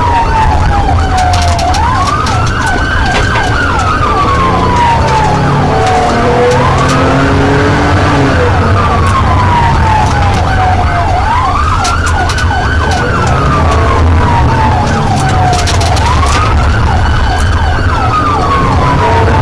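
Police car siren in wail mode, each cycle rising quickly and falling slowly, repeating about every four and a half seconds, over a steady low rumble of vehicle and road noise.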